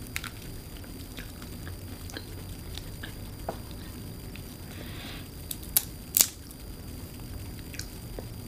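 Close-miked chewing and crunching of shell-on seafood, with scattered small clicks of shell and two sharp clicks about six seconds in.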